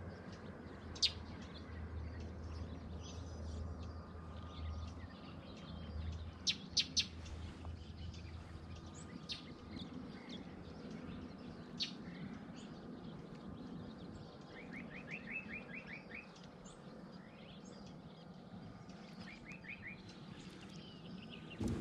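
Small birds calling: scattered sharp, high chirps, with two short rapid trills of quick notes, one about two-thirds of the way in and another near the end.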